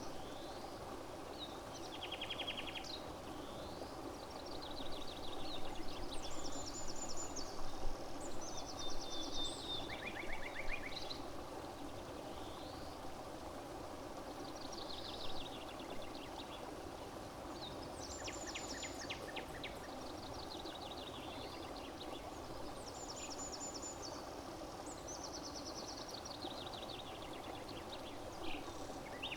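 Songbirds singing outdoors: short, fast trilled phrases repeated every second or two, with a lull in the middle, over a steady low rushing background.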